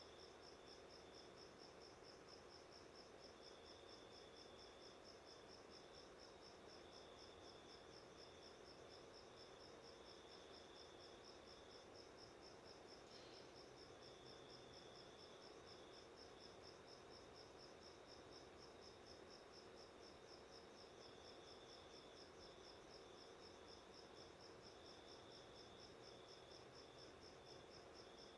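Faint, even chirping of an insect, about two short high chirps a second, with a fainter high tone coming and going.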